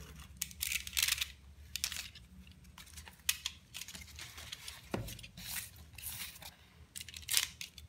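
Paper wrapping of a fireworks cake being torn and crinkled by hand in short, irregular rips, with a sharp click about five seconds in.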